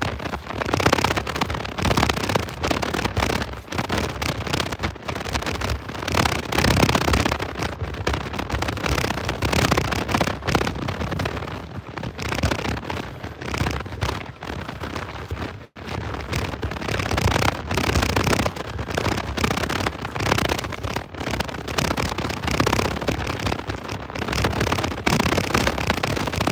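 Continuous crackling and rattling of a dog scooter's wheels and footsteps on a steep, bumpy dirt trail as the scooter is walked uphill, with many irregular clicks and knocks.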